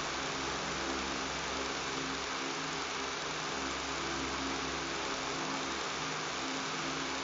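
Electric fan running steadily: an even airy hiss over a low motor buzz that does not change.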